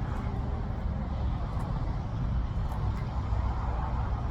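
Outdoor background noise: a steady low rumble with no distinct event.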